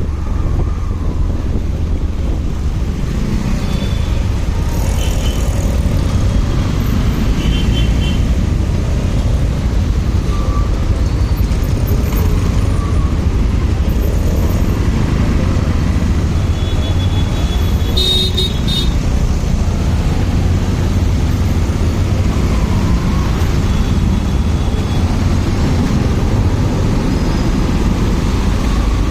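Riding a motorcycle through traffic: steady engine and wind rumble with road noise. A brief high-pitched tone, like a horn toot, comes about two-thirds of the way through.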